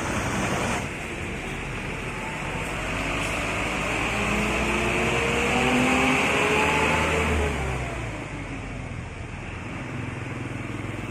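A truck passing by on the road. Its engine note rises and the tyre and engine noise swells to a peak about six to seven seconds in, then drops off as it moves away.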